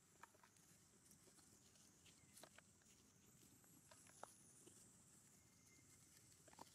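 Near silence: faint outdoor background with a steady high hiss and a few faint short clicks or squeaks.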